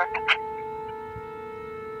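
Outdoor tornado warning siren sounding the drill, held at one steady pitch. It plays under a brief burst of dispatch radio speech at the start.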